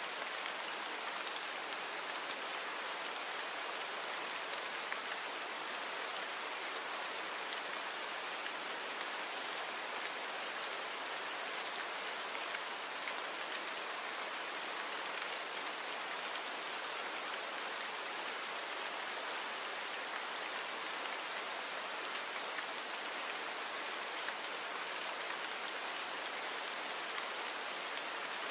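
Steady rain falling, an even hiss of many fine drops with small drop ticks, without thunder or changes in strength.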